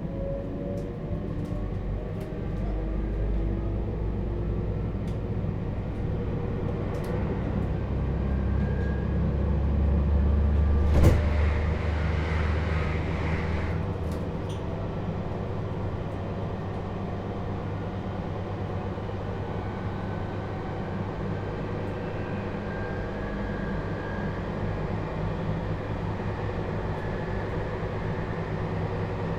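Toshiba GTO-thyristor VVVF inverter and traction motors of a JR Hokkaido 721-series EMU under power, with slowly rising inverter tones and a low motor hum over rail noise and wheel clicks. The sound builds to its loudest with a sharp bang about eleven seconds in and a few seconds of louder noise, then drops back about fourteen seconds in as the motor load falls away and the train runs on more quietly.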